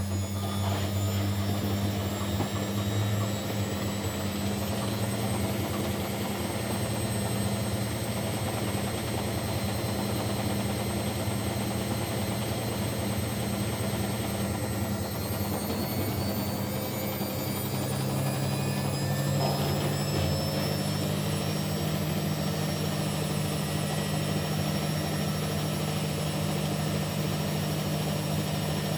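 Kunft washing machine running with a steady motor hum and a thin high whine. Between about 15 and 19 seconds in, the hum and the whine rise in pitch as the motor speeds up, then hold steady at the higher speed.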